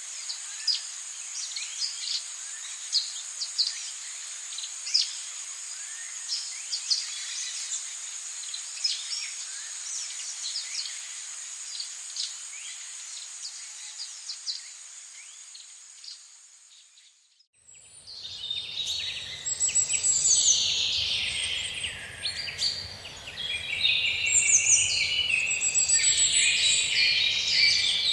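Rainforest ambience: a steady high-pitched insect drone with many short bird chirps. It fades out about two-thirds of the way through. After a moment of near silence, a louder, denser chorus of overlapping bird song fades in.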